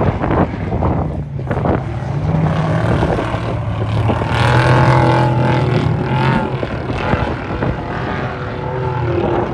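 Off-road race vehicle's engine running loudly, its note strongest midway through.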